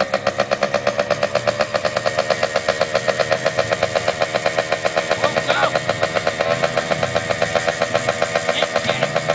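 Dirt bike engine idling with a steady, rapid putter.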